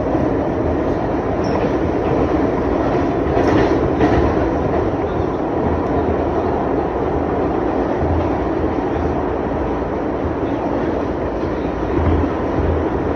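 R62A subway car running at speed through a tunnel, heard from inside the car: a steady loud rumble of wheels and running gear, with a few short knocks from the track.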